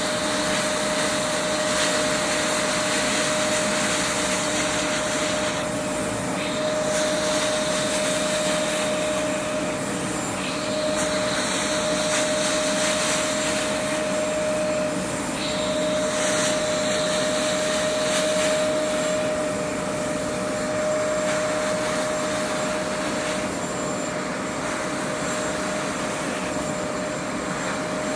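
Hoover Max Extract 60 Pressure Pro carpet deep cleaner running with a steady motor whine under a loud rushing hiss. The hiss shifts in pitch several times, about 6, 10 and 15 seconds in.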